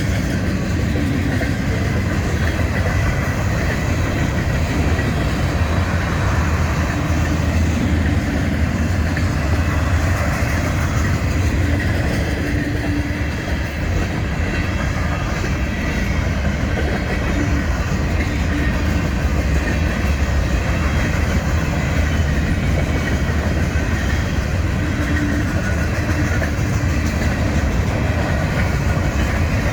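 Freight train rolling past: cars on the rails making a steady, heavy rumble.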